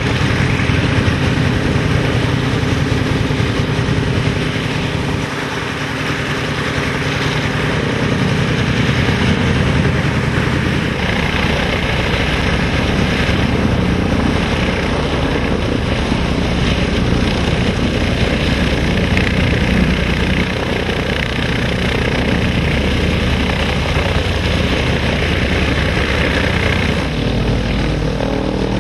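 Vintage propeller aircraft's piston engine running steadily.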